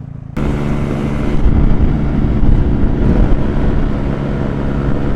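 Dirt bike engine running under way with wind rushing over the microphone. It starts abruptly, louder, about half a second in, after a quieter steady engine note.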